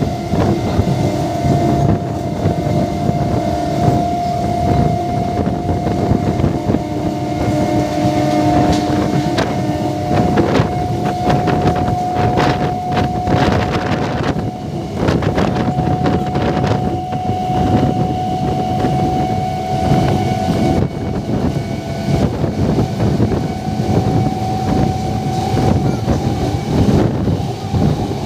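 MEMU electric train running at speed, heard from an open door with wind on the microphone: a steady rumble of wheels on rails, with a run of sharp rail clicks near the middle. A steady whine sounds over it and drops out a little past two-thirds of the way through.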